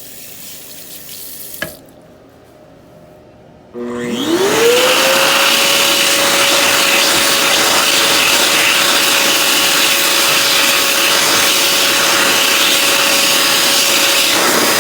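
World Dryer VERDEdri high-speed hand dryer starting up about four seconds in: its motor whine rises quickly to a steady high pitch over a loud rush of air, and it keeps running steadily. A sharp click comes shortly before it starts.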